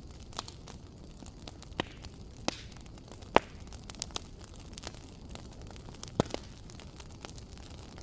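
Fireplace fire crackling: a steady low rumble of flame with a handful of sharp pops, the loudest about halfway through and another near the two-thirds mark.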